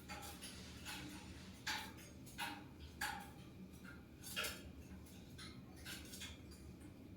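Oriental magpie-robin (kacer) giving short, sharp call notes at irregular intervals, faint overall, with four louder notes in the first two thirds: a fighting-style kacer recording used to provoke other birds to answer.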